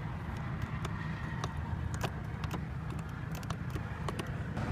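Steady low background rumble with a scattered series of light, sharp clicks.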